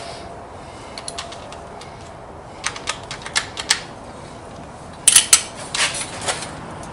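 Scattered sharp clicks and knocks in two short clusters, one a little before the middle and one near the end.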